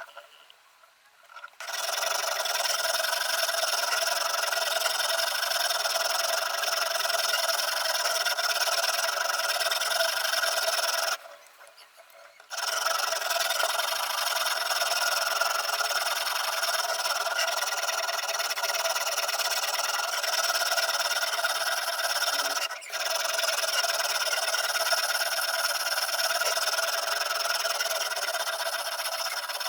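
Sharpening stone on a guided-rod knife sharpener rubbing along a VG10 steel chef knife's edge, a continuous grinding scrape with a faint ringing from the blade. It stops for about a second and a half roughly eleven seconds in, and drops out briefly again near the two-thirds mark.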